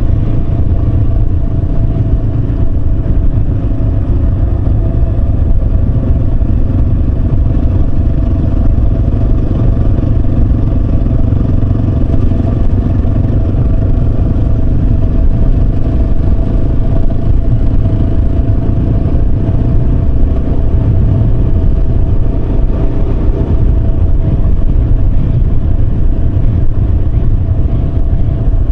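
Yamaha Serow 250's single-cylinder engine running at a steady cruising speed on the move, under a heavy low rumble of wind and road noise.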